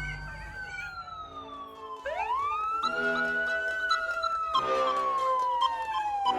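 Toy emergency vehicle's electronic siren wailing: a tone that sweeps up quickly and slides slowly down, repeating, over a simple tune of steady stepped notes. The wail dips a little, then starts again about two seconds in.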